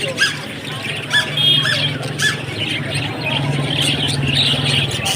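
Several birds chirping and squawking, with short calls repeating throughout, over a steady low hum.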